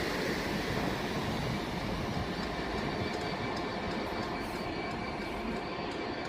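A passenger train set running past on the station tracks: a steady rumble of wheels on rail with faint thin high tones over it.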